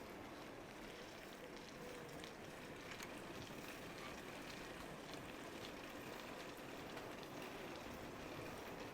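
Steady, faint hiss of a bicycle on the move: tyres rolling over the road surface, with scattered light ticks.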